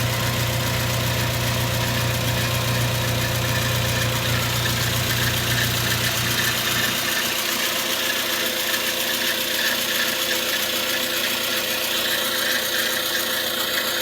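Suzuki Grand Vitara's J20A 2.0-litre four-cylinder engine idling with an intermittent unidentified idle noise. The noise persists with the accessory belt removed and after new tensioner and idler pulleys, so the belt drive is ruled out. A low hum in the sound drops away about 7 seconds in.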